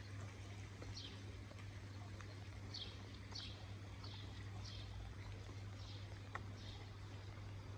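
A small bird chirping, one short high note sliding downward, repeated about every half second, over a steady low hum.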